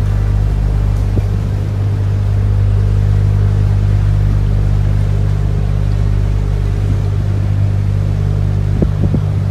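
Canal tour boat's motor running steadily with a low, even hum, with a few light knocks near the end.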